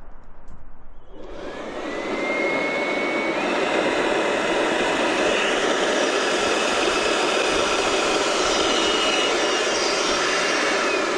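Electric blower motor switching on about a second in, its whine rising in pitch as it spins up, then running steadily with a loud rush of air.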